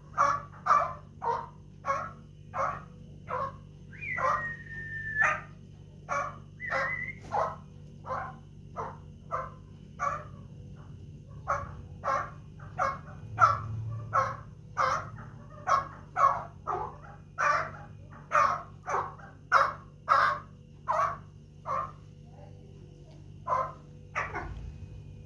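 Chukar partridge calling: a long run of short, loud chuck notes, about two a second, with two falling whistled notes in the first seven seconds.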